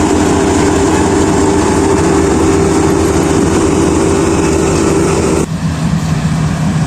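Kubota DC-35 rice combine harvester's diesel engine and threshing machinery running loud and steady, with a constant whine. About five seconds in the sound changes abruptly to a lower, duller hum.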